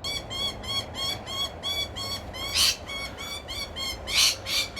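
Australian parrot calling agitatedly: a fast run of short, sharp repeated notes, about four a second, broken by a few louder, harsher screeches in the second half, the scolding of a bird disturbed at its feeding spot.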